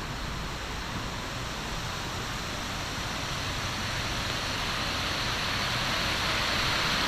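A steady, even hiss of noise that grows slowly louder.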